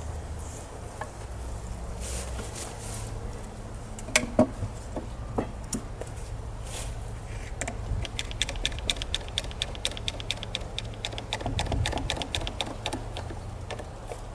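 Work on table legs: two sharp knocks, then a fast, even run of clicks, about nine a second, lasting some five seconds over a low steady hum.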